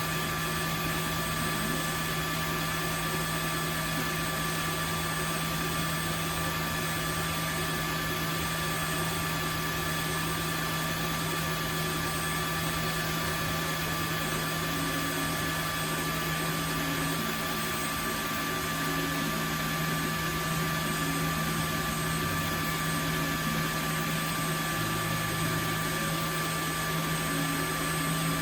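Tineco Floor ONE S5 wet-dry vacuum running its self-cleaning cycle in the dock: a steady motor hum with a constant high whine.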